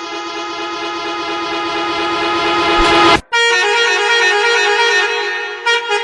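Two different bus horns sounded one after the other. The first is a long steady blast that grows louder and cuts off suddenly about three seconds in. The second is a horn with a different, chord-like tone, held and then broken into short toots near the end.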